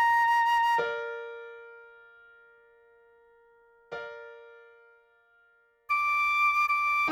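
A recorder melody note is held, then cut short by a struck piano chord that rings and slowly fades. A second piano chord follows about three seconds later, and the recorder melody comes back in near the end.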